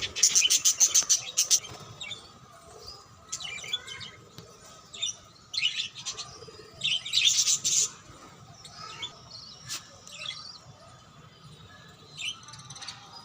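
Budgerigars chirping: a rapid run of chirps in the first second and a half, then short scattered bursts of chirping every second or two.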